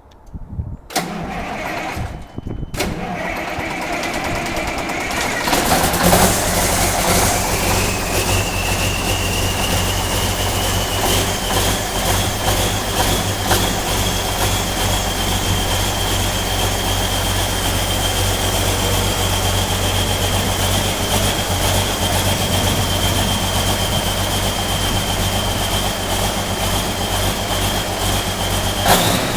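Ford 946 tractor's diesel engine cold-starting: a few seconds of cranking, then it catches about six seconds in and settles into steady running. A high whine rises over the next several seconds and then holds steady.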